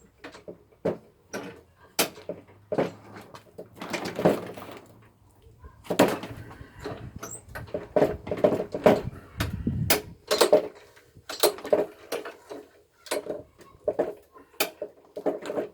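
Irregular clunks, clicks and rattles of hands working on a petrol lawnmower, plastic and metal parts knocking, with the sounds coming thicker from about halfway through.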